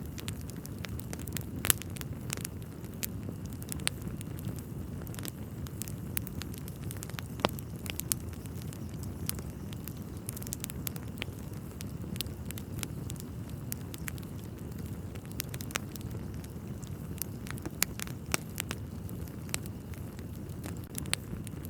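Wood fire burning in a fireplace: a steady low rush of flame with irregular sharp crackles and pops from the logs.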